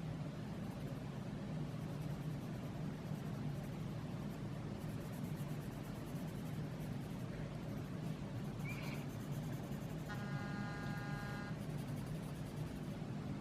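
Steady low background hum. About nine seconds in comes a brief rising chirp, then a single held tone with overtones lasting about a second and a half.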